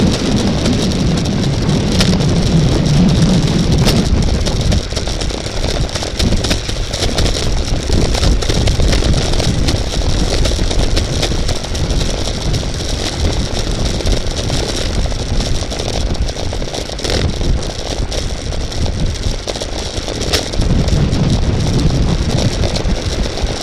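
Wind and road noise of a bicycle race: a steady low rumble that is heavier at the start and again near the end, with a few sharp clicks.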